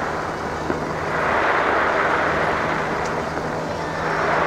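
Fireworks display: a dense, continuous rumble of bursts that swells and eases, with a couple of sharp pops standing out.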